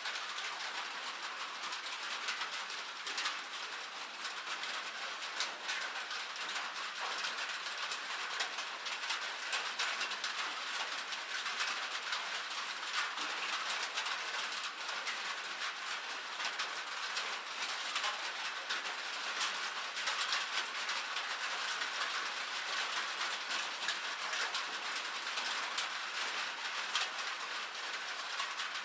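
Raindrops pattering steadily: a dense run of small, irregular ticks.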